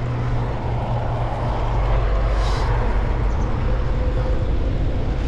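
Wind rushing over a GoPro microphone and road noise while riding a road bike, a steady low rumble.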